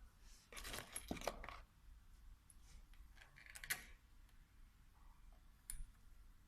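Small metal parts clinking and rattling together: a cluster of clinks about half a second in lasting about a second, a shorter rattle past three and a half seconds, and a single click near the end.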